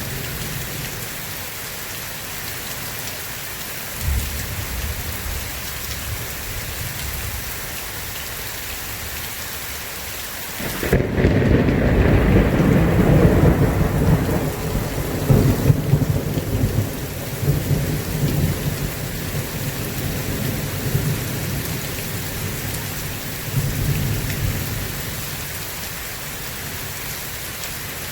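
Steady rain falling, with thunder: a low rumble about four seconds in, then a loud thunder peal about eleven seconds in that rolls on, rumbling for over ten seconds before fading.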